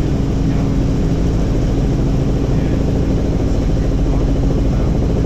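Helicopter in steady flight: constant engine and rotor noise with a steady droning hum.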